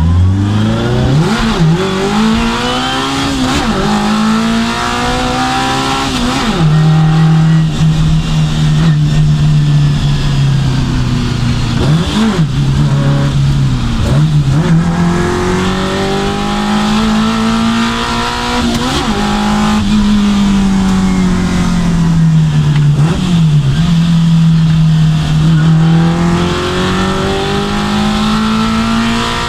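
Tuned Fiat 600 Abarth's four-cylinder engine running at high revs on a tune-up test. Its pitch rises and falls, with several brief sharp drops where the throttle comes off before it picks up again.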